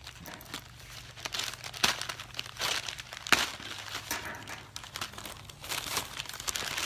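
Plastic packaging crinkling irregularly as a packaged squishy is handled, with a couple of sharp crackles.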